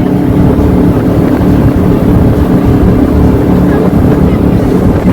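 An engine running at a steady speed, with wind buffeting the microphone.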